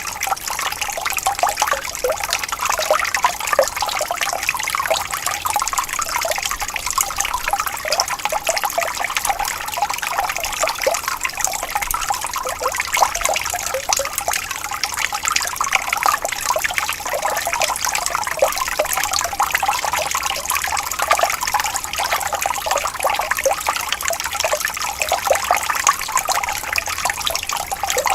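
Gently flowing water trickling steadily, with no pauses.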